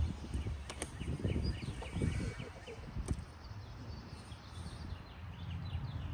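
Handling noise from string trimmer parts being fitted together: soft knocks and a couple of sharp clicks. A bird chirps repeatedly in the background for a second or so in the middle.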